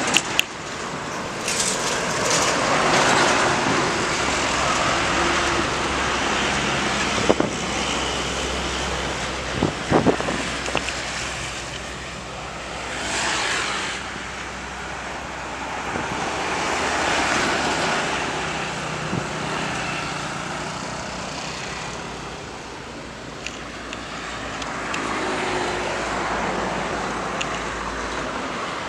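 Road traffic passing: cars and motorcycles go by one after another, each swelling and fading over a few seconds, with a few sharp knocks along the way.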